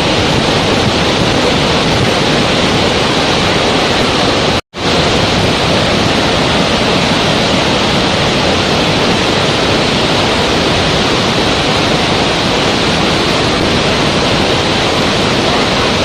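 Steady, even rushing of water, like a waterfall, with no rhythm or swell. It drops out to silence for a split second about four and a half seconds in, then resumes unchanged.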